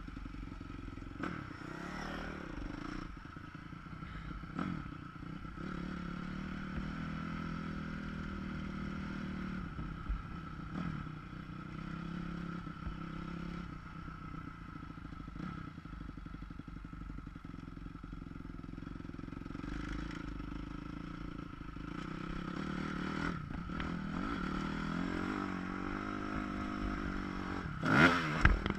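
Dirt bike engine revving up and down as it is ridden around a motocross track, muffled by a GoPro's sealed waterproof housing, with rattles and knocks from the bike. Several loud knocks come near the end.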